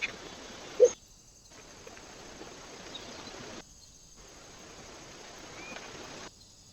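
Outdoor ambience picked up by a trail camera's microphone: a steady hiss, with a short sharp tap just under a second in and a single brief chirp about a second before the end. The sound drops out three times for about half a second each.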